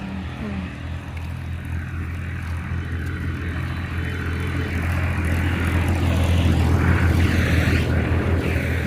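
A motor engine running with a steady low hum, growing louder to a peak about seven seconds in and then easing off a little.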